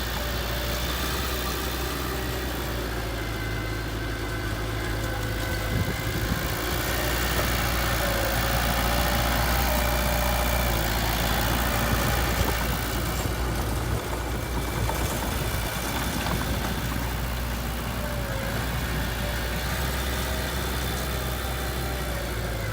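Heavy construction machine's diesel engine running steadily, growing somewhat louder for several seconds mid-way before settling back.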